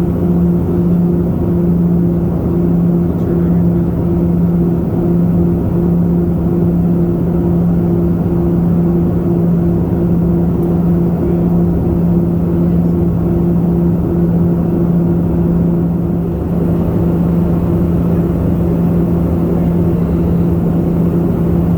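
Small propeller airliner's engines droning steadily, heard from inside the cabin: a constant low hum with a steady pitched tone over rumbling noise.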